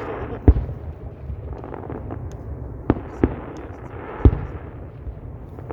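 Fireworks shells bursting: a sharp bang about half a second in, two close together near three seconds, and a loud one a little after four seconds, over a steady background hiss.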